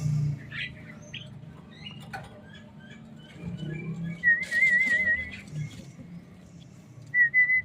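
Javan mynas chirping with short scattered calls, a wavering whistled trill about four seconds in, and a steady held whistle near the end.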